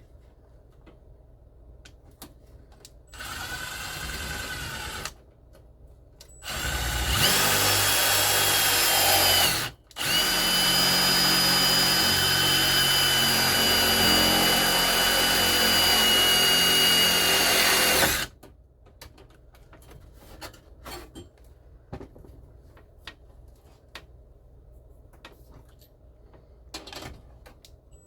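Power drill running in three spells: a short, quieter run about three seconds in, a loud run that speeds up as it starts about seven seconds in, then, after a brief stop, a steady run of about eight seconds. It is being used to put extra screws into the dash mounting.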